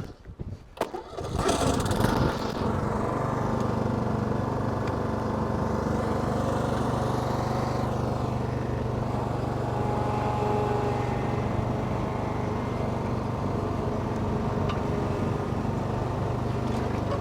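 Lawn mower's small gasoline engine starting after a few knocks about a second in, then running steadily at an even speed.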